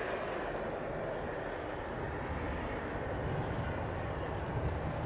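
Piper Archer's single piston engine running at low power as the light plane comes in to land, heard as a steady broad drone, with a low rumble building about two seconds in.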